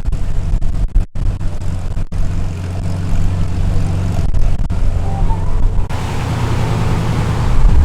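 Holden car's engine rumbling low and steady as it rolls in, with wind buffeting the microphone. A louder rush of noise builds over the last two seconds or so.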